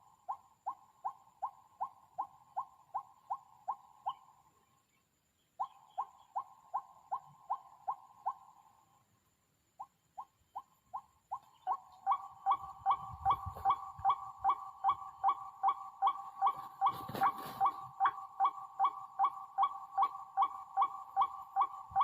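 White-breasted waterhen calls: a short "kwak" repeated about three to four times a second in runs. Two runs break off, then the calling goes on without a break, louder and fuller from about twelve seconds in.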